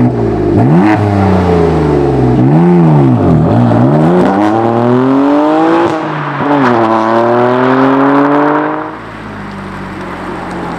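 BMW M4's 3.0-litre turbocharged inline-six on its stock exhaust, revving hard, its pitch climbing and falling several times. About nine seconds in the revving stops and the engine note drops to a quieter, steady low hum.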